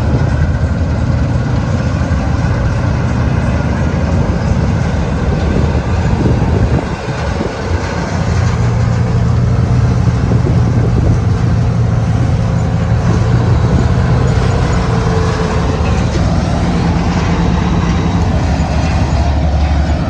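GAHIR 941 combine harvester running under load while harvesting pearl millet: a loud, steady drone of engine and threshing machinery. The sound dips briefly about seven seconds in, then comes back stronger.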